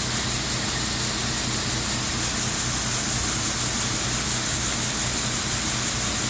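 Heavy farm machinery engine running steadily at a constant low drone, with an even high hiss over it.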